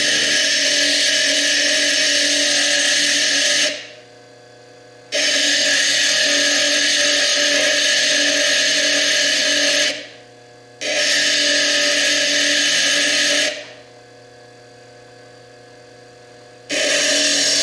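Foredom bench lathe grinding into a fire agate, cutting away the chalcedony and quartz overburden: a steady hissing grind over a motor hum. It stops three times, for about one to three seconds each, and starts again suddenly.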